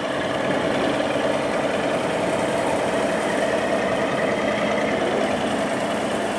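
Tugboat engine running steadily while towing a barge, a continuous even drone.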